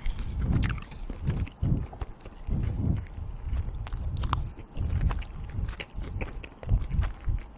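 Close-up chewing and biting of food, an irregular run of soft low thuds with crisp clicks and crackles of the food breaking.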